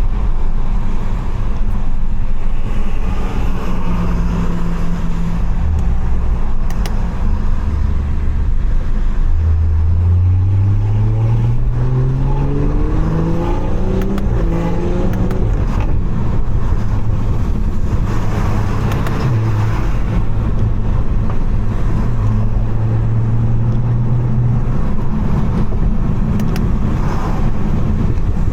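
Tuned BMW 540i's turbocharged inline-six engine and road noise heard from inside the cabin. About a third of the way in, the engine note climbs steadily in pitch for several seconds under acceleration, then holds a steady drone.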